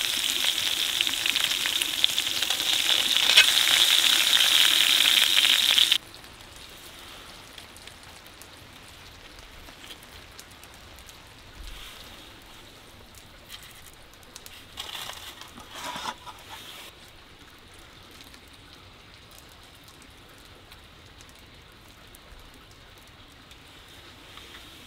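Food sizzling loudly in a hot pan, cutting off abruptly about six seconds in. After that only a quiet background remains, with a few soft crackles and clicks.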